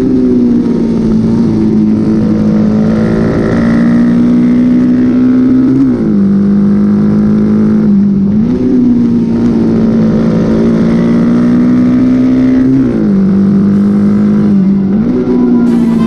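Honda XL dual-sport motorcycle engine running hard at race speed, its pitch stepping down and back up a few times as the revs change.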